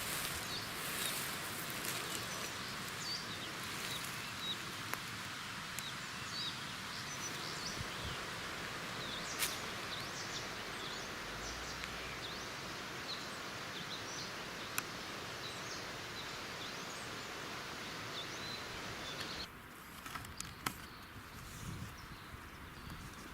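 Small birds chirping in short, scattered calls over a steady hissing background noise. The background drops abruptly near the end.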